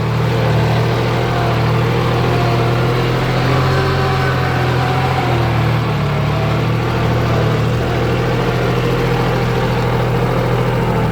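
Kubota tractor's diesel engine running steadily at a constant speed while plowing a wet rice paddy.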